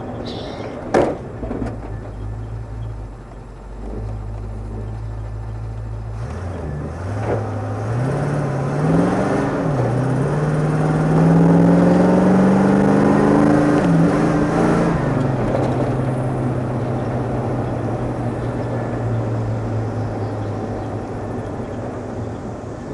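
1979 Camaro Z28's V8 engine idling, then revving up from about six seconds in, its pitch climbing with two brief dips, before settling back to a steady idle after about fifteen seconds. A sharp knock sounds about a second in.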